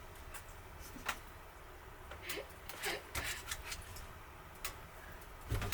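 Scattered light clicks and small knocks of objects being handled in a small room, with a louder thump near the end.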